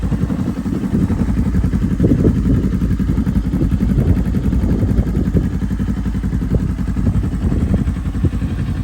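Kawasaki Ninja 400's parallel-twin engine running steadily while riding, with a dense low rush of wind over the microphone.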